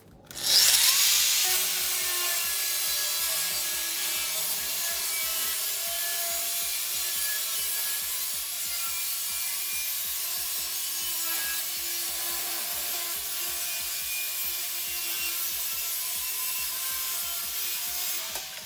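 Electric power tool cutting sheet steel for sill repair patches: it spins up about half a second in, runs steadily through the cut with a faint shifting whine, and winds down near the end.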